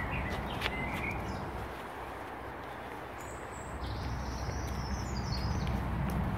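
Wild birds chirping over a steady outdoor background noise, with short chirps in the first second and a high, thin call of several falling notes about three seconds in.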